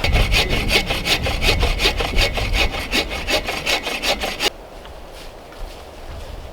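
Hand saw cutting through wood in quick, even back-and-forth strokes, several a second, stopping suddenly about four and a half seconds in.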